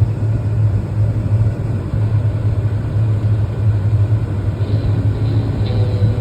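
Fendt tractor engine running steadily under load, a low continuous hum.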